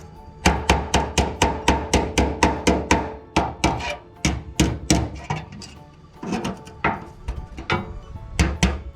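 Hammer blows on sheet steel in quick repeated strikes, about two to three a second, pausing briefly around four seconds in and going lighter for a stretch before picking up again near the end: a steel patch panel being hand-formed.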